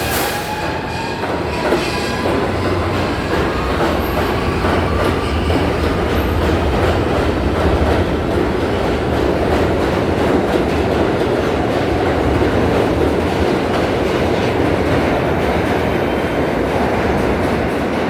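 New York City subway train running through the station, with a steady loud rumble and wheels clattering over the rail joints. A faint whine rises in pitch over the first couple of seconds.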